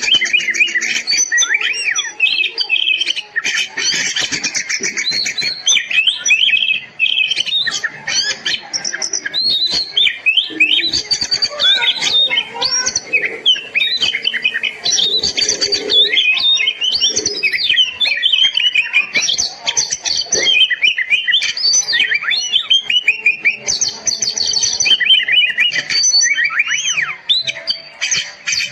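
Oriental magpie-robin singing a long, continuous, fast and varied song of whistles, chirps and trills with hardly a pause.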